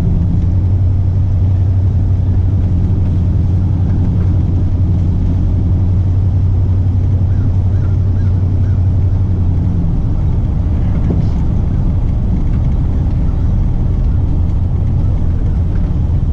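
Truck driving, heard from inside the cab: steady engine and road rumble, with a low drone that drops away about ten seconds in.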